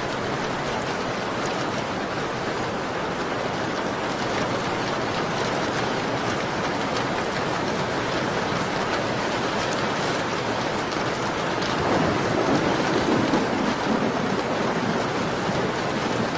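Steady rain beating on a window pane, an even hiss with scattered faint drop ticks. About twelve seconds in it swells into a louder, lower rush for a couple of seconds.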